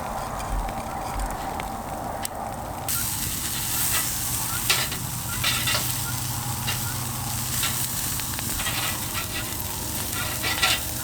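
Meat sizzling on a grill over a campfire, a steady frying hiss with scattered pops and crackles that grows much louder about three seconds in.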